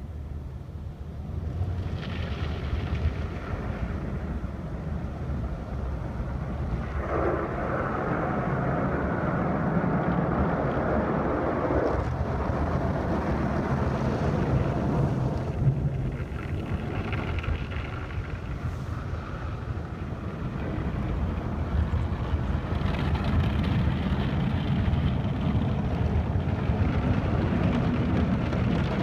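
Automatic car wash running over the car, heard from inside the cabin: a steady rumble of machinery and water on the bodywork. It swells louder for several seconds in the middle and again near the end.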